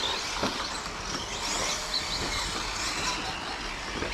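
Electric 1:10 short course RC trucks running on the track, their motors giving faint whines that rise and fall over a steady hiss, with a few light knocks.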